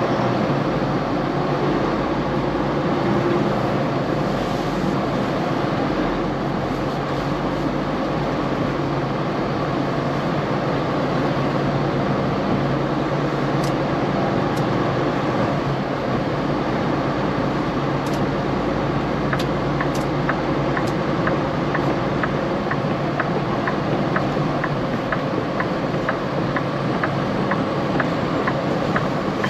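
Semi-truck running, heard from inside the cab as a steady drone of engine and road noise. About two-thirds of the way in, a steady ticking starts, about twice a second.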